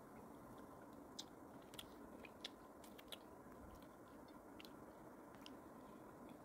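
Faint chewing sounds of a person eating ginataang tilapia (tilapia in coconut milk) with rice by hand, with scattered small clicks from the mouth.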